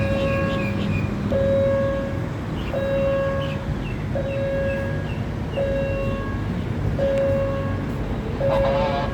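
Level-crossing warning signal sounding a repeated electronic tone, about one every second and a half, over a steady low traffic rumble, warning that a train is approaching.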